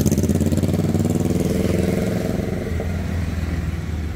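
A vehicle's engine running close by, fading steadily as it moves away.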